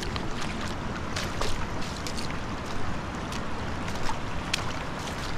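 Steady rush of river water with wind on the microphone, dotted with short sharp clicks.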